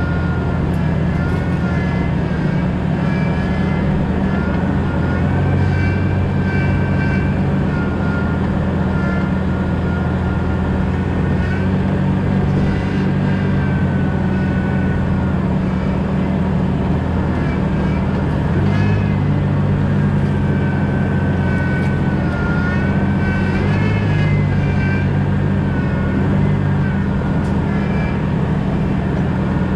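2000 Jeep Cherokee XJ driving: a steady, loud low drone of engine and road noise, with a thin high whine above it that wavers slowly up and down in pitch.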